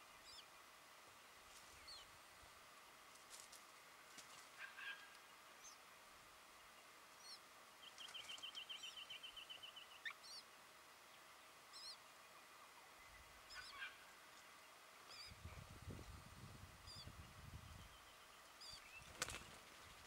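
Faint bird calls: a fast trill of repeated notes about eight seconds in and scattered short high chirps throughout. A sharp click near the end and a low rumble a few seconds before it.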